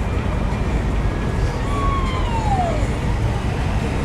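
Heavy city traffic heard from a high window: a steady low rumble of many cars. About halfway through, a single high tone glides down over about a second.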